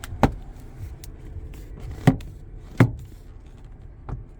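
Four sharp clicks of switches being pressed on a truck's cabin controls, spread over a few seconds, over a low steady hum.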